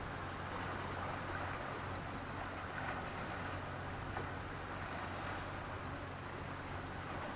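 Sea surf washing onto a beach of black stones and sand: a steady hiss of small waves, with no distinct breaking crash.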